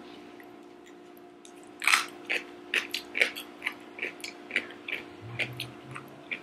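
Close-miked crunchy chewing of crisp food. A loud first bite comes about two seconds in, then steady crunches two or three times a second.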